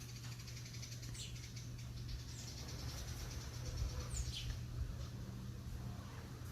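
Bird calls: three short, high chirps, each falling in pitch, spaced one to two seconds apart. Under them a fast pulsing high buzz in the first couple of seconds and a steady low hum.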